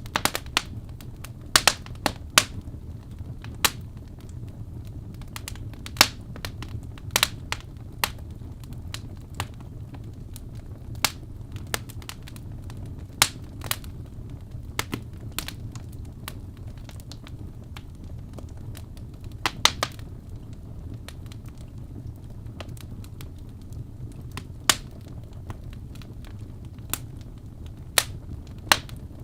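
Wood fire crackling in a fireplace: irregular sharp snaps and pops, some in quick clusters, over a steady low rumble of burning.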